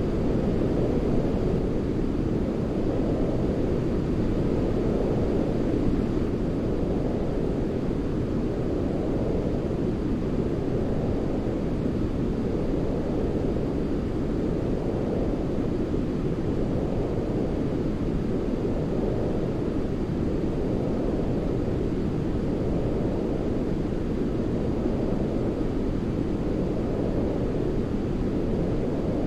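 Steady, deep baby-sleep white-noise track, weighted to the low end like brown noise, with a gentle swell in its upper edge about every two seconds.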